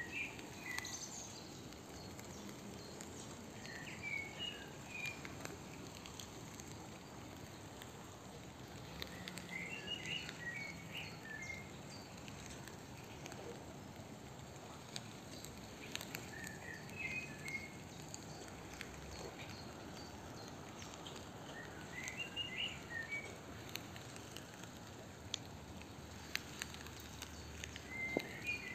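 A songbird repeating a short phrase of several quick chirpy notes, about once every six seconds, over a steady outdoor hiss.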